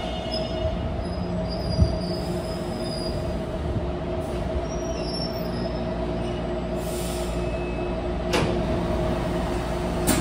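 Taipei Metro train pulling into the station: wheels and running gear rumbling with a steady high squeal over them, a short thump about two seconds in and a sharp click near the end.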